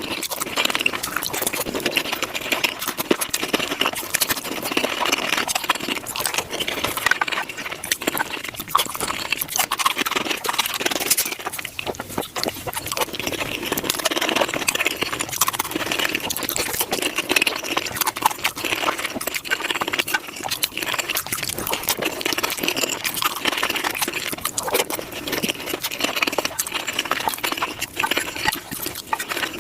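Close-miked chewing and crunching of tacos, sped up fivefold into a dense, rapid stream of wet clicks and crackles.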